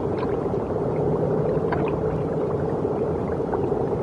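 A steady low hum with a few faint short clicks over it, about a quarter second in and near the two-second mark.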